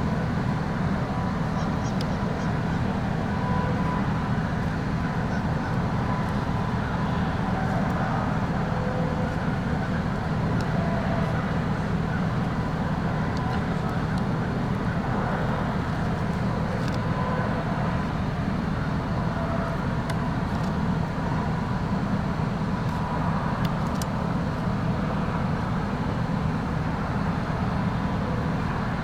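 Steady low rumble of motor-vehicle traffic, unchanging throughout.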